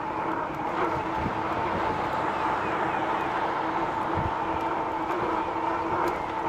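Electric bike riding along: a steady motor whine over rushing wind and tyre noise, with a few low bumps.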